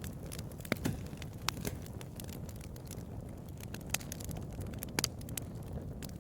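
Bonfire crackling: irregular sharp pops and snaps of burning wood over a steady low rush of flame, with the loudest pops just under a second in and again about five seconds in.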